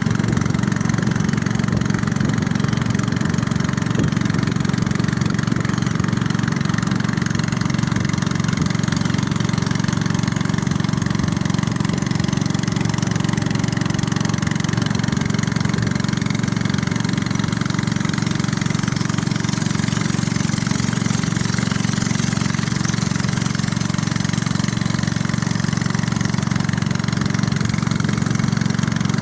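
A small boat's engine running steadily at an even pace, a constant low drone with no change in speed.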